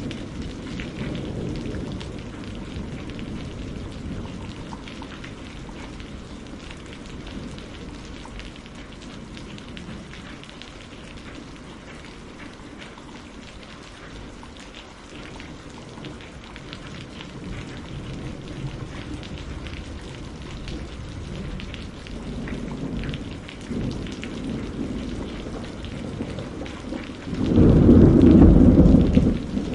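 Steady rain falling on a greenhouse roof, with low rumbles of thunder coming and going, and a loud peal of thunder near the end.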